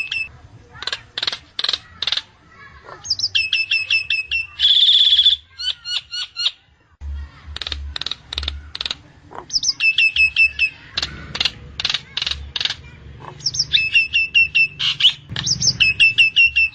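Nias hill myna calling loudly: repeated runs of five or six short, quick falling whistles, mixed with sharp chirps and clicks. About five seconds in there is one longer held note.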